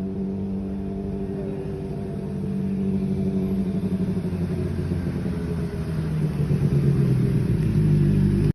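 2008 Honda CBR600RR's inline-four engine running through an SC-Project aftermarket exhaust. Steady at first, then its pitch shifts and it grows louder over the last few seconds.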